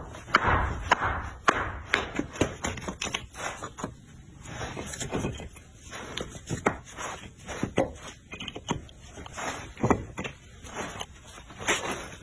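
Irregular knocking and chopping impacts, with scraping in between.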